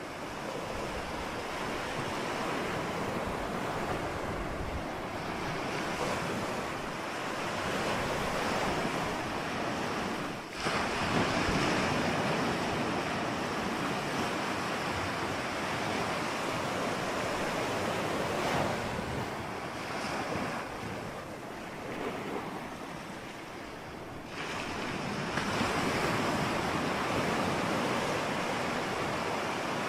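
Ocean surf: waves breaking and washing in a continuous rush that swells and eases, dropping briefly about ten seconds in, quieter for a few seconds past the twenty-second mark, then building again near the end.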